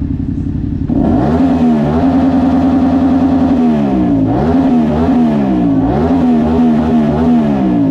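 Motorcycle engine revving up loudly about a second in, then holding its pitch, with the pitch dipping and climbing again a few times.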